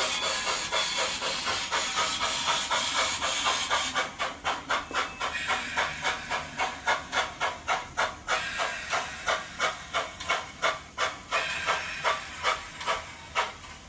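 Steam locomotive exhaust chuffing from a model steam locomotive's sound system. At first a dense hiss of fast beats, then from about four seconds in separate chuffs at about three a second, slowing a little toward the end.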